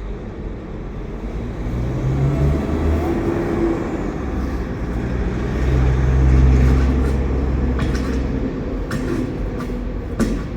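Low engine rumble of a heavy truck, growing louder around six seconds in and easing off again, with a few short knocks near the end.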